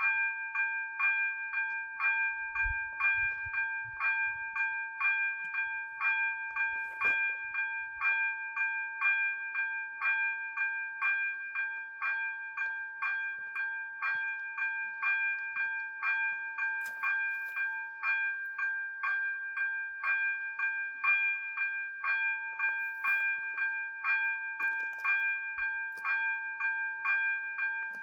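ZV-02 level-crossing warning bells ringing in a steady, even rhythm of about two dings a second: the crossing's warning that a train is approaching. A faint low rumble sits under the bells in the first several seconds.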